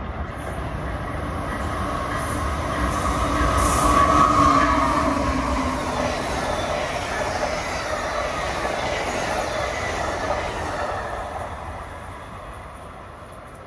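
A passenger train runs through the station at speed without stopping. It grows loudest about four seconds in, with a tone that drops in pitch as it goes by, then fades away over the following seconds.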